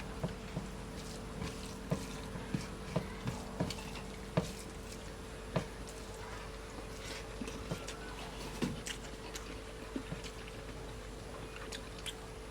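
Eating a fish curry meal: scattered, irregular small clicks and taps, over a steady low hum.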